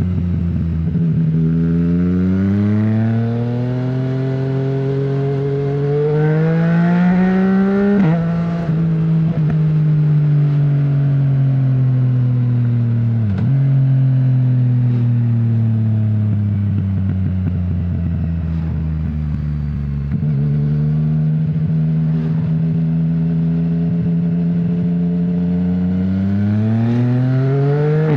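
2020 Yamaha MT-09's 847 cc inline three-cylinder engine, breathing through an Akrapovic full exhaust system with no dB killer, under way. The pitch climbs as it accelerates and drops sharply at a gear change about eight seconds in. It then falls slowly over several seconds as the bike slows, holds steady, and climbs again near the end.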